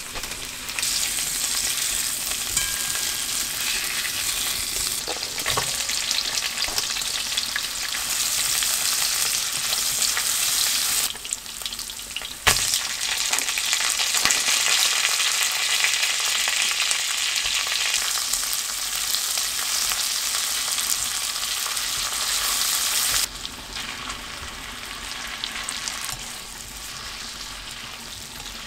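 Food frying in a pan, a steady dense sizzle. It dips briefly about eleven seconds in, and there is a single sharp knock at about twelve and a half seconds. The sizzle then drops to a quieter level about twenty-three seconds in.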